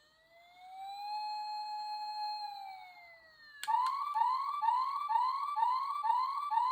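Electronic siren from the Tomica Town sound-and-light toy fire station's small speaker: a slow wail that rises, holds and falls, then switches a little past halfway to a quick rising chirp repeated about twice a second. The toy's sound circuit is working after repair.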